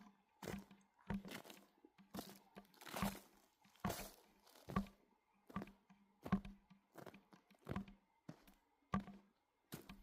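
Slow, steady footsteps crunching on frozen snow and ice, about three steps every two seconds.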